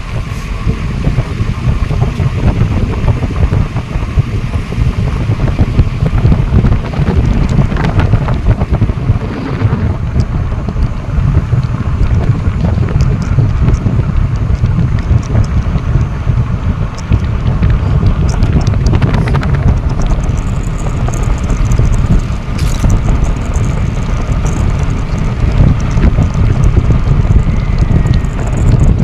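Wind buffeting the microphone: a loud, steady rumbling rush, heaviest in the low end and fluttering rapidly.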